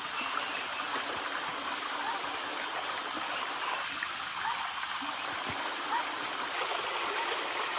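Steady, even rush of water with small scattered drips and splashes.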